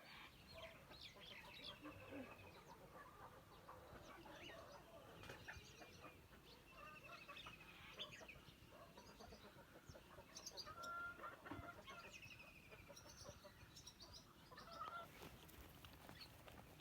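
Faint bird calls: scattered short chirps and several quick trills, overlapping at irregular intervals.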